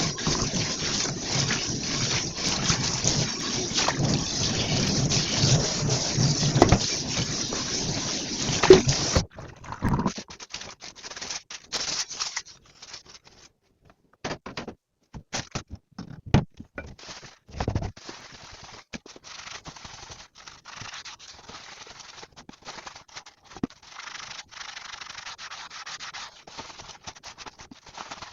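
Dishes being washed by hand: a loud, steady rush of scrubbing and rinsing that cuts off suddenly about nine seconds in. Then come scattered knocks of dishware with short silences, and after that quieter, steady rubbing and scrubbing.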